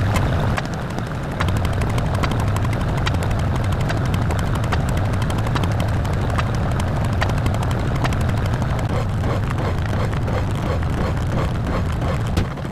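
A steady, loud mechanical drone with a strong low hum and many sharp clicks running through it.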